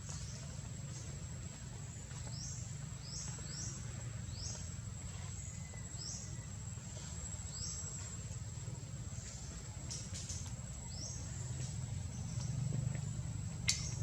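Steady high-pitched insect drone over a low rumble, with a run of about ten short, high chirps that each fall in pitch. A sharp click near the end.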